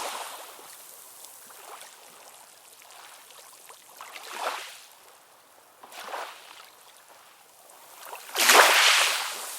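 Ocean waves washing in, rising and falling in surges: two small ones in the middle and a much louder wave breaking near the end.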